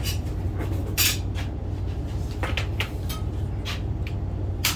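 Sharp knocks and clinks of tools and wood trim being handled, the loudest about a second in and near the end with lighter ticks between, over a steady low hum.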